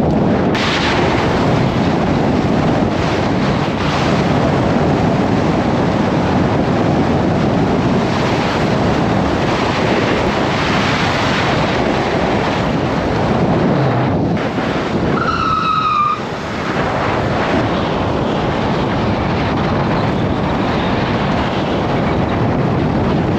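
Wind rushing over the microphone, with road and traffic noise, while riding an electric mini dirt bike at speed; the bike's motor is not heard above it. A short, high, slightly falling tone sounds about two-thirds of the way through.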